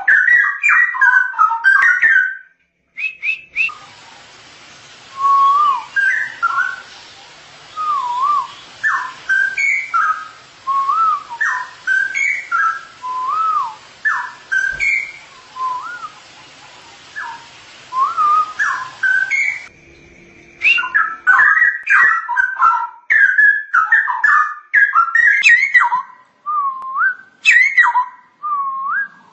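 Straw-headed bulbul (cucak rowo) singing loud, bubbling whistled phrases one after another, each with quick dips and rises in pitch. The song stops abruptly near the start and again about two-thirds of the way through, as if the recording were spliced.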